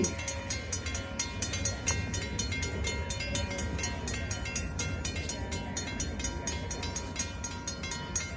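Train passing: a steady low rumble with a quick, even run of sharp clicks, about four a second, as the wheels cross the rail joints. The horn cuts off right at the start.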